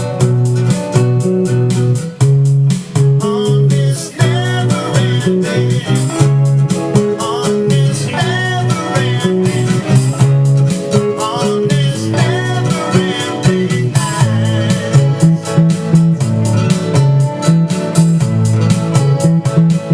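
A song playing with a bass guitar line prominent in the low end, guitar on top and a steady drum beat.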